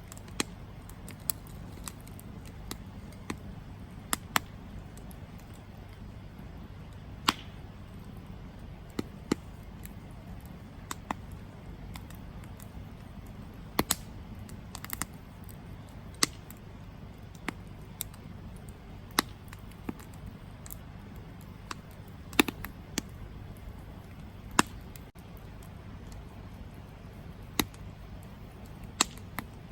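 Wood campfire crackling: sharp, irregular pops and snaps, roughly one or two a second, over a steady low rush.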